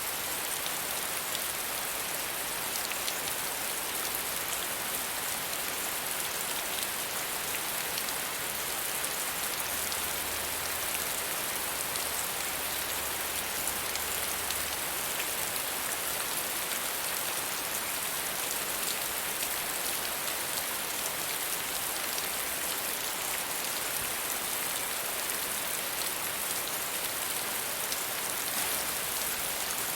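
Steady soft rain falling, an even hiss of rainfall with scattered small drop ticks.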